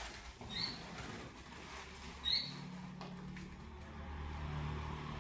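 A small bird gives two short, high squeaky chirps about two seconds apart. From about halfway in, a low steady engine hum of a vehicle rises underneath.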